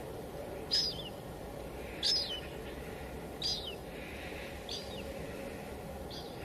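Steady light drizzle hiss, with a bird repeating a short high call that drops at the end, five times, about once every second and a half. The bird calls are the loudest sounds.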